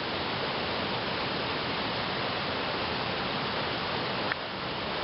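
A waterfall in high flow, swollen by heavy rain and snowmelt, rushing steadily, with one brief click about four seconds in.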